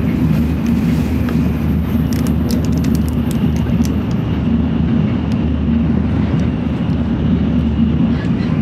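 Steady low rumble of a Shinkansen bullet train at speed, heard inside the passenger car. About two to four seconds in come a run of light clicks from a plastic spoon scraping a plastic bento tray.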